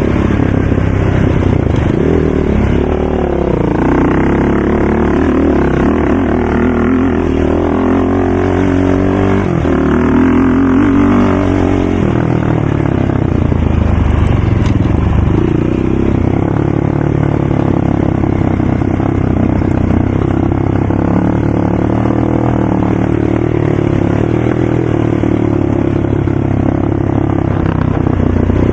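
ATV engine running and being ridden, its pitch rising and falling as the throttle is opened and eased off, more changeable in the first half and steadier later.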